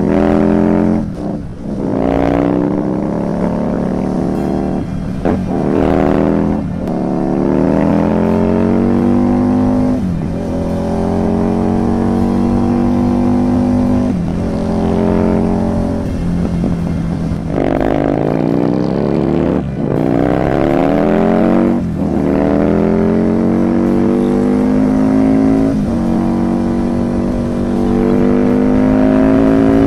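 Husqvarna Nuda 900R's parallel-twin engine under hard acceleration, heard from the rider's seat. Its pitch climbs as it revs out in each gear and drops sharply at each gear change, about ten times over.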